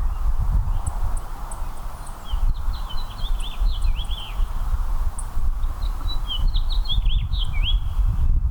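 A house finch singing two short warbling phrases of quick rising and falling notes, one a couple of seconds in and another near the end, with faint high chips from other birds. Under it runs a steady low rumble.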